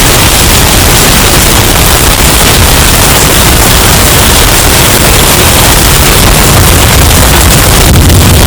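Hurricane wind sound effect, bass boosted and distorted until it clips: a steady, very loud rush of noise with heavy bass.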